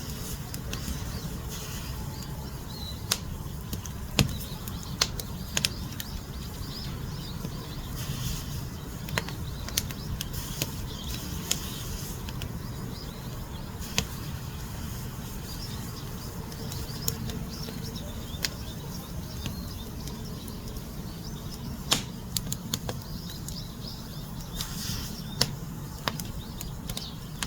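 Wood fire burning: a steady low rumble of flame with irregular sharp crackles and pops from the burning logs.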